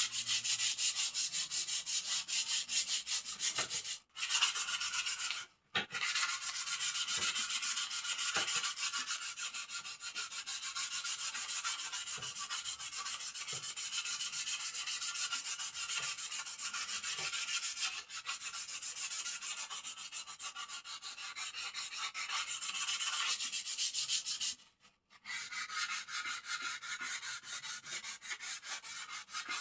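Sandpaper rubbing rapidly back and forth over the wood of a birdcage, smoothing it, in a fast even rhythm of hissing strokes with a few short breaks.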